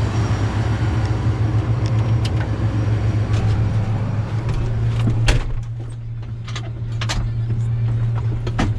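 John Deere 9760 combine running steadily while harvesting wheat, a constant drone with a strong low hum. About five seconds in the broader noise eases off, and several sharp clicks or rattles follow.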